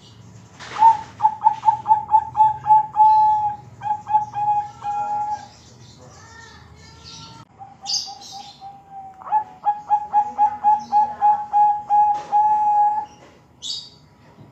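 Zebra dove (Bangkok-type perkutut) cooing: two rolling phrases of quick, evenly repeated coos at one pitch, the first starting about a second in and the second about nine seconds in, each ending in a few longer drawn-out notes. Short high chirps from another bird come between the phrases and near the end.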